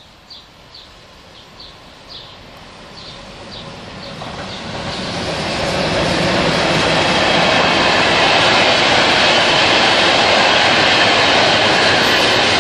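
Electric freight train hauled by two Renfe locomotives approaching and passing close by. Its noise swells over the first six seconds into the loud, steady sound of container wagons running on the track. A bird chirps repeatedly in the first few seconds, before the train drowns it out.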